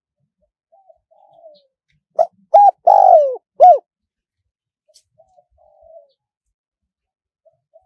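Spotted dove cooing: faint soft notes lead into a loud phrase of two short coos, a long falling coo and a final short coo, about two seconds in, then the faint lead-in notes start again.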